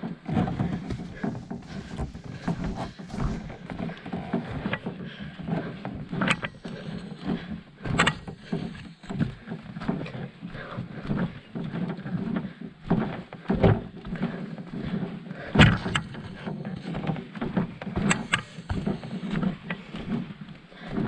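Canoe being paddled: water noise from the strokes, with several sharp knocks against the hull scattered through, the loudest about halfway and three-quarters of the way in.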